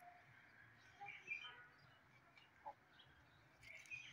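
Near silence with faint bird chirps: a few short chirps about a second in and again near the end.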